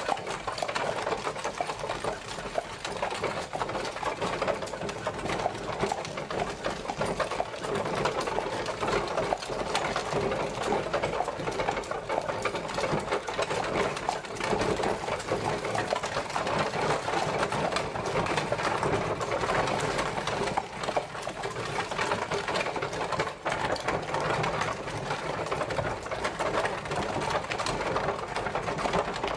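Horse-drawn carriage on the move: a steady, dense clatter of wheels and carriage body rattling.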